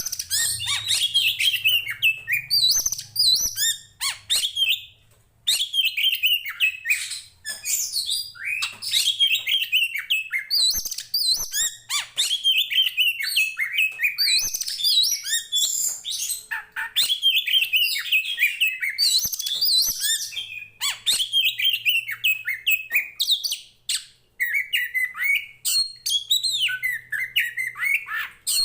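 Oriental magpie-robin (the dark-bellied 'poci' kacer) singing a long, rapid, varied song of whistles, trills and harsh chattering notes, almost without a break. There are short pauses about five seconds in and again near the end.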